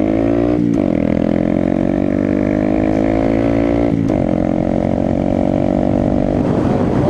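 Honda Grom's small single-cylinder engine pulling under way, its revs climbing slowly and then dropping sharply twice, about a second in and about four seconds in, as the rider shifts up.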